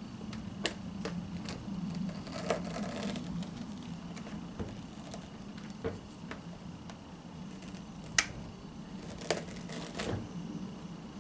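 Scattered clicks and small knocks of hands working at a vacuum cleaner's brush roll, clearing hair and threads wrapped around it, with a brief rustle about two seconds in, over a steady low hum.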